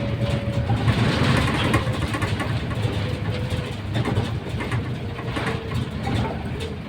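Mercedes-Benz O530 Citaro city bus running, heard from aboard during a ride: a steady low engine rumble with a faint whine that slides a little lower in pitch, and scattered light rattles.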